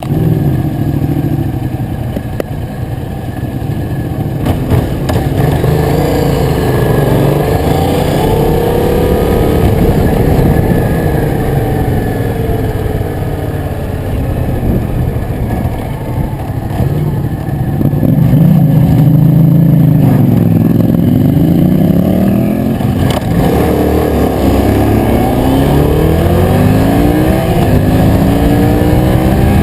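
Yamaha MT-07's parallel-twin engine under way on a ride, its revs climbing and dropping again and again as it accelerates through the gears and eases off.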